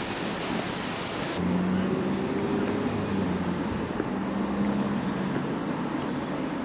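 Street traffic with a motor vehicle's engine running as a steady low hum, starting abruptly about a second and a half in after a stretch of rushing noise.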